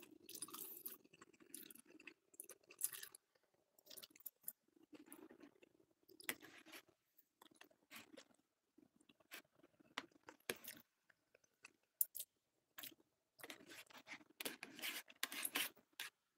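A person chewing food close to the microphone, in irregular spells with a few short sharp clicks, all fairly quiet.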